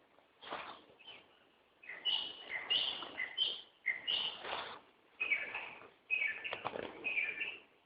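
Songbird singing in a forest: a run of short warbled phrases, each about half a second long, following one another closely.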